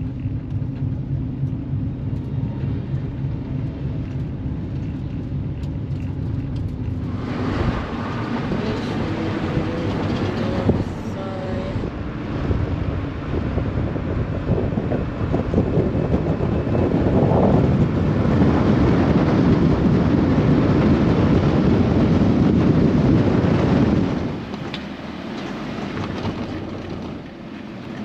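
Van driving on the road, a steady engine hum at first. Wind and road noise rise about a quarter of the way in and are loudest for a stretch before dropping back near the end.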